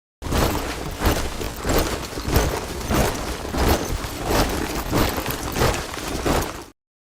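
A body of soldiers marching in step, boots striking the ground together about twice a second. The sound starts abruptly just after the beginning and cuts off suddenly near the end.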